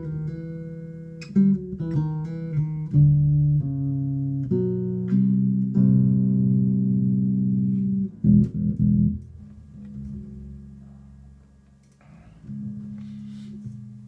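Spector Euro 4 Classic electric bass with active EMG pickups, played solo through a Markbass Little Mark 58R combo on a scooped amp setting. A quick run of plucked notes gives way to a few long held notes, and the last one fades away near the end.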